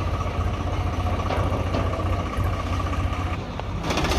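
Diesel engine idling with a steady low, evenly pulsing rumble.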